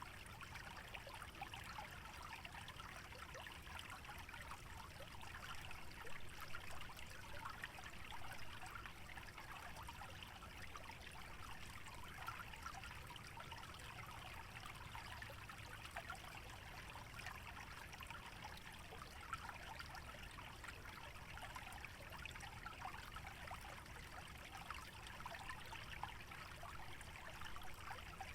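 Small stream trickling steadily, faint and even, with no change.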